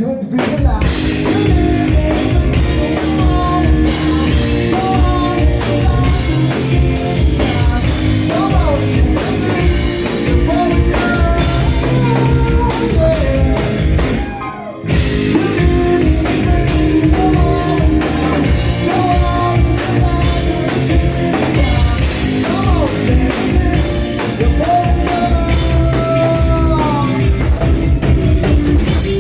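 Live rock band playing: a singer over a drum kit and amplified instruments, with a brief break in the sound about halfway through.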